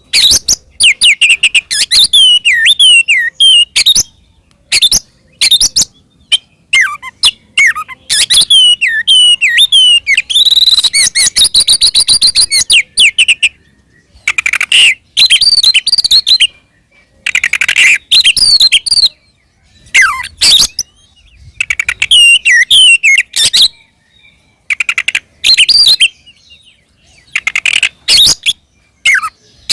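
Oriental magpie-robin (kacer) in loud, open, combative song: bursts of rapid whistled phrases and harsh chattering, broken by short pauses, with one longer unbroken run of chatter about a third of the way through.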